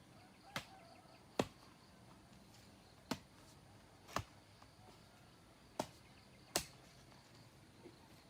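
Sharp strikes of a tool hitting wood, six of them at irregular intervals about a second apart.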